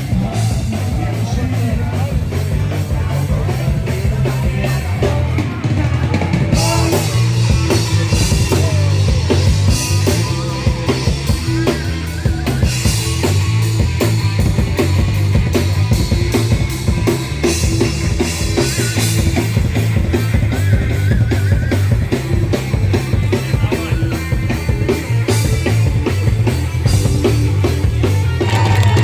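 A live street band playing rock music, with a drum kit keeping a steady beat over heavy bass. The cymbals get brighter about six or seven seconds in.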